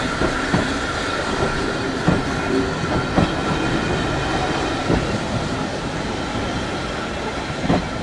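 A train on a heritage railway line running along the track: a steady rumble with irregular clicks and knocks of the wheels over the rail joints.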